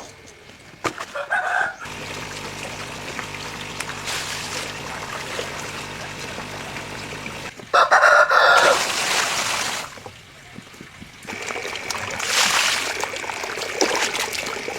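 A rooster crows twice, once about a second in and again, louder, near the middle. Underneath is a steady rush of running water.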